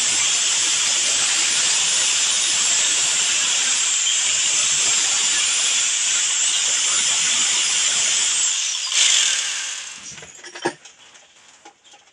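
Electric drill running under load with a high whine that dips briefly a couple of times. About nine seconds in it is released and winds down, its pitch falling away.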